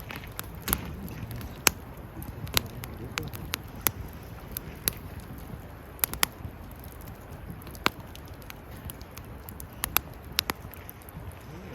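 Wood fire crackling: irregular sharp pops and snaps, a few of them in quick pairs, over a low steady rustle of the burning fire.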